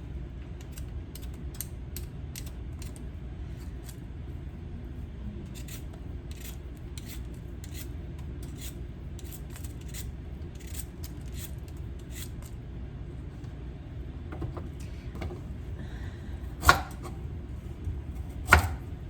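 Carrots being skinned: short scraping strokes, roughly one or two a second, over a low steady hum. Two loud knocks come near the end.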